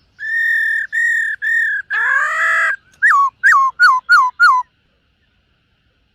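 Black-throated laughingthrush singing: three clear whistled notes on one pitch, a harsh rasping note, then five quick down-slurred whistles.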